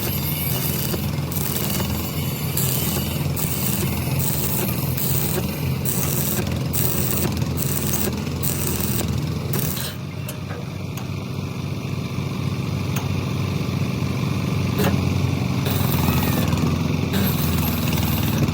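An engine running steadily, with short bursts of hissing noise, two or three a second, over the first half.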